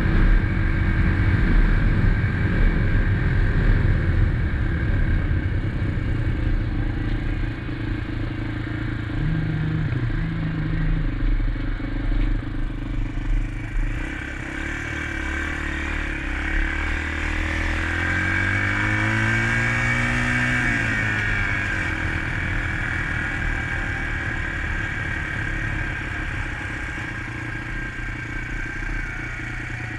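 2021 SSR XF250 dirt bike's single-cylinder engine running under way, with wind rumble on the camera microphone. About two-thirds of the way through, the engine revs rise and then drop.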